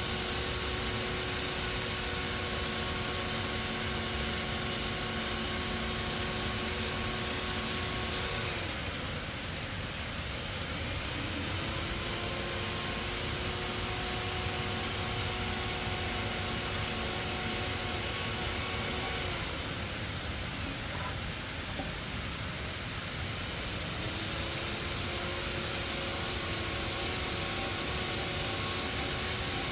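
A motor running steadily with a hiss. Its pitch sags twice, about a third of the way in and again past the middle, and climbs back each time, as a machine slows under load and picks up speed again.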